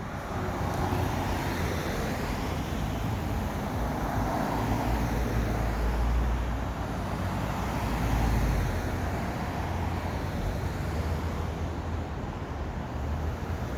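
Motor vehicle running: a steady low rumble of engine and road noise that swells about six and eight seconds in.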